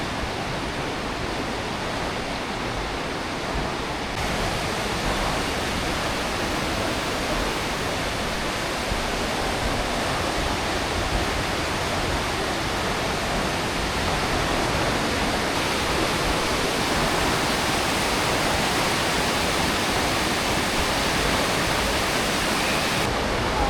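Aare River rushing through its gorge: steady water noise that grows a little louder about four seconds in and keeps building gently.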